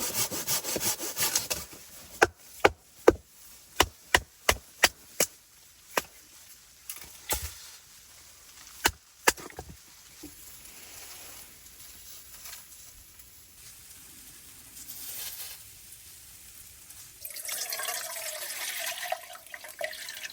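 A hand saw cutting wood in quick, even strokes that stop after about a second and a half. A string of about ten sharp knocks or snaps follows, then a quieter stretch, and near the end a rushing sound.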